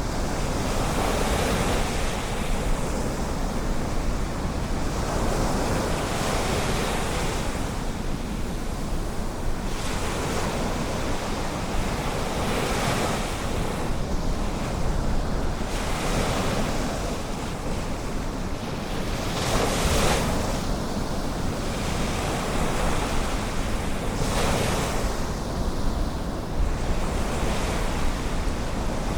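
Ocean surf washing in, swelling and fading every few seconds, over a steady low rumble of wind on the microphone.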